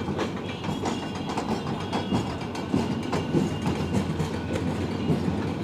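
Passenger train coaches rolling past, their wheels clicking irregularly over the rail joints above a steady rumble.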